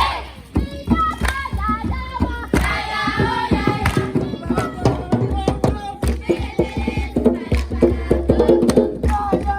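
Group singing, with hand clapping and drumming beating out the rhythm.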